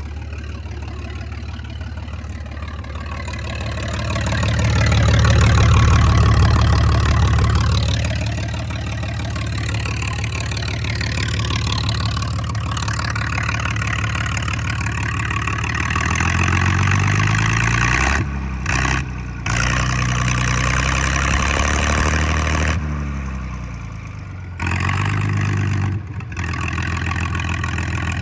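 Straight-piped John Deere 4010 LP tractor's propane six-cylinder engine running with the exhaust coming straight out of the manifold, super loud. It revs up about four seconds in and settles back, then is revved up and down several times, cutting back sharply a few times, in the second half.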